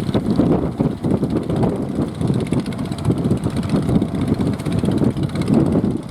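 Strong wind buffeting the microphone, a loud, uneven low rumble that surges and eases in gusts.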